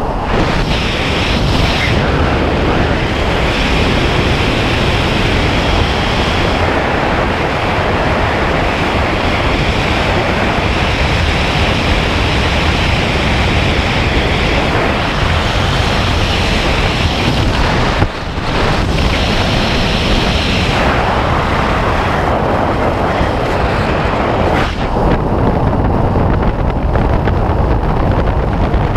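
Loud, steady wind rushing over a skydiver's camera microphone, with brief dips about two-thirds of the way through.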